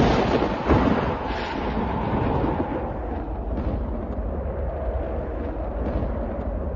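Thunder crash with a long rolling rumble and a second sharper crack about a second in, over a steady snowstorm wind.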